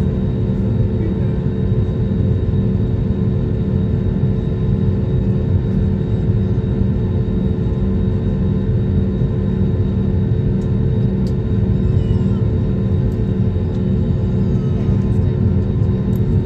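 Steady drone inside a passenger airliner's cabin in flight: a deep, even rush of engine and airflow noise with a constant hum over it.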